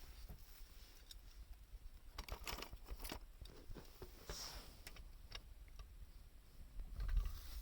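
Scattered light clicks and crackles of small wood, irregular and sparse, with a low rumble near the end.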